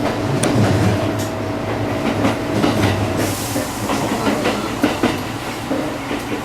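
Kintetsu electric train running on the rails, its wheels clicking over rail joints over a steady rumble. A steady motor whine cuts off about three seconds in, followed by a brief hiss.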